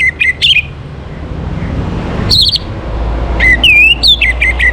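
Orange-headed thrush singing: short phrases of clear whistled notes that slide up and down, one at the start, a brief one a little after two seconds in, and a longer one near the end, over a steady low rumble.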